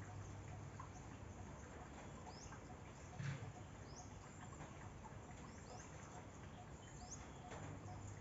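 A bird repeating a short, high, upward-sweeping chirp about every one to one and a half seconds, over faint outdoor ambience. There is a soft thump about three seconds in.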